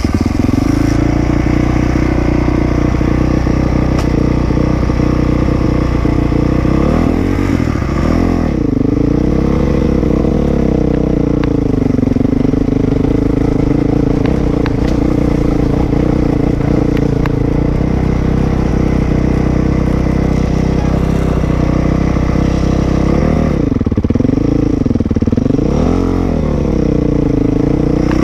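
Dirt bike engine running close up, steady for long stretches, with its pitch rising and falling a few times as the throttle is worked.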